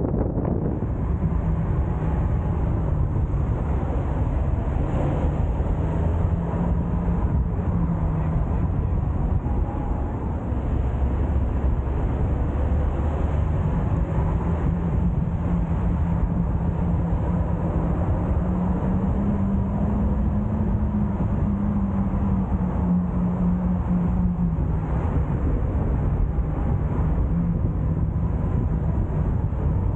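Car being driven on the road: a steady engine hum mixed with tyre and wind noise, the engine note rising slightly about two-thirds of the way through and then settling again.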